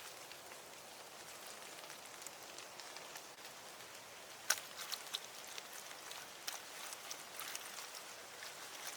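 Rain falling steadily, with scattered drops ticking sharply on nearby surfaces; one louder tick comes about halfway through.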